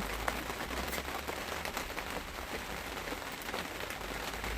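Steady crackling hiss with a low rumble that swells and fades: wind noise on the phone's microphone outdoors.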